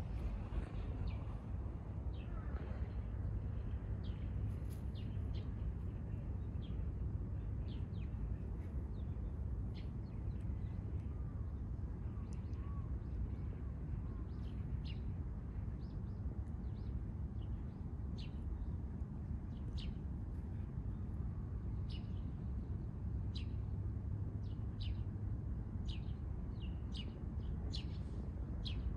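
Small birds chirping, with short, high calls scattered irregularly throughout, over a steady low background rumble.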